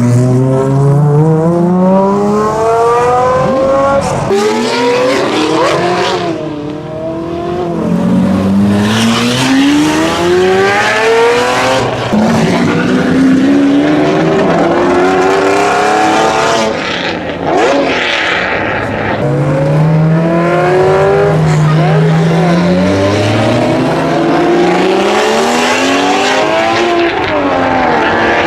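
Several supercars accelerating hard one after another as they pull away, loud engines revving up through the gears: each rising note drops back at a shift and climbs again, sometimes with two cars heard at once.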